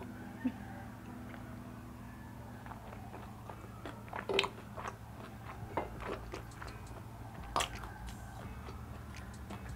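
Close-miked mouth sounds of someone chewing Korean fried chicken: wet smacks and clicks with a few sharp crunches, the loudest about four and a half and seven and a half seconds in.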